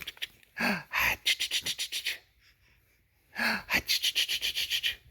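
A baby giggling in two bouts, each a short voiced sound followed by a quick run of breathy pulses, about ten a second.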